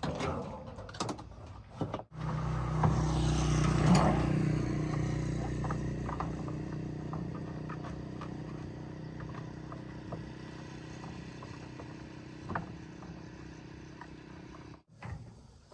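Washing machine motor running with a steady hum, starting abruptly about two seconds in and slowly fading until it cuts off near the end.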